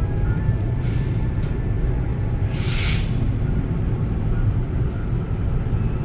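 Argo Bromo Anggrek passenger train running, heard from inside the coach as a steady low rumble, with a short burst of hiss about two and a half seconds in.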